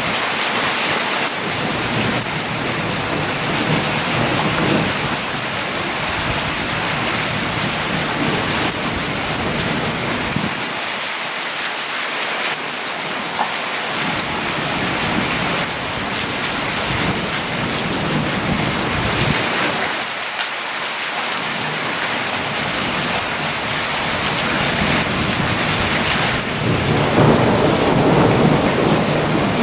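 Steady heavy rain with thunder rolling and rumbling in long waves through it, the loudest rumble building near the end.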